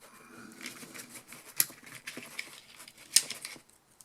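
Light clicking and rattling of the recoil starter's parts, its housing and coiled spring, being handled, with two sharper clicks, one about a second and a half in and one about three seconds in.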